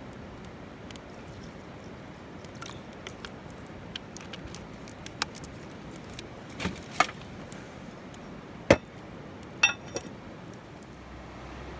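A handful of sharp separate knocks and clinks, as of hard objects being handled or struck, over a steady faint background hiss; the loudest knock comes about nine seconds in.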